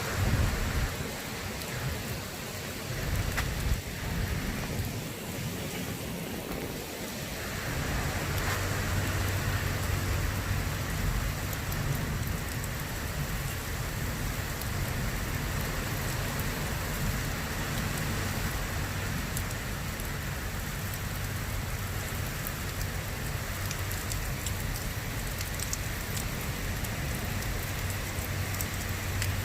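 Heavy rain falling steadily during a thunderstorm. Gusts of wind rumble unevenly over the first several seconds, then settle into a steady wash of rain.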